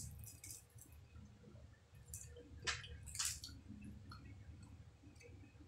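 Mouth sounds of chewing a fried dynamite lumpia, chili peppers wrapped in crisp lumpia wrapper: a few sharp crunches, the loudest about three seconds in, with wet chewing between.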